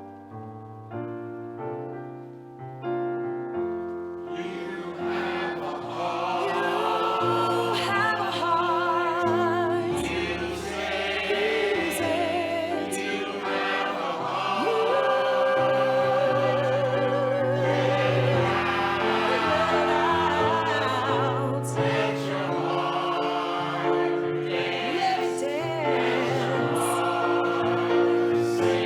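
A choral performance: a few seconds of chords struck about once a second as an introduction, then a chorus of adult voices comes in singing with accompaniment, some voices holding notes with wide vibrato.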